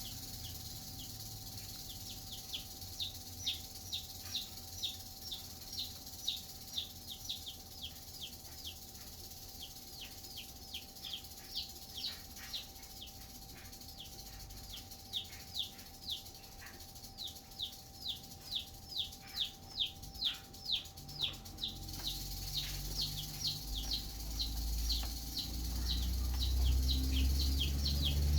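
Feeder chicks peeping: a long run of short, high, falling peeps, often two or three a second, with a short lull midway. Low rumbling noise builds toward the end.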